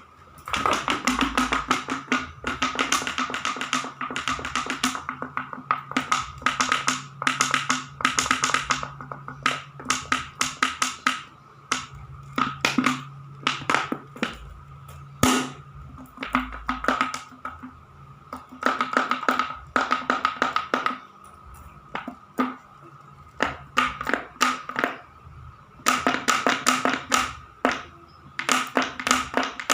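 Battery-powered toy robot cat's motor and gears running, with rapid ticking in bursts of a second or two over a steady whine.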